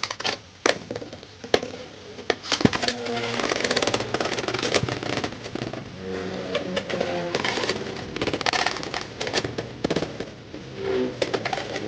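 Beyblades landing with a few sharp clicks, then a dense crackling, rattling scrape from about three seconds in, with short whirring tones: Cobalt Dragoon 2-60C racing fast around the plastic stadium while Lightning L-Drago 100HF spins.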